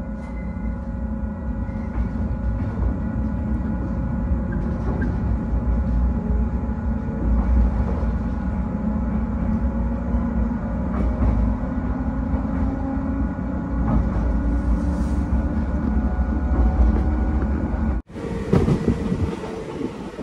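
JR 115-series electric train running, heard from inside the carriage: a steady low rumble of wheels on rail with a faint hum, and a low tone that rises slowly in the middle. About two seconds before the end it cuts to louder, more open running noise, with the carriage window opened.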